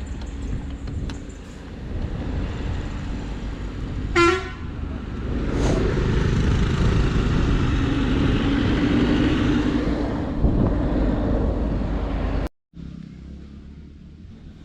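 Road traffic heard while cycling, with a steady low wind rumble on the microphone. A vehicle horn gives one short toot about four seconds in, then a motor vehicle passes loudly for several seconds before the sound cuts off abruptly near the end to something quieter.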